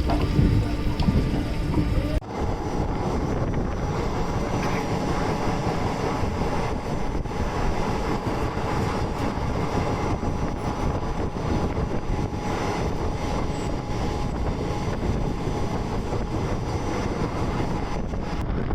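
Indian Railways passenger train running along the track: a steady rumble and rattle from the carriage, with some wind on the microphone.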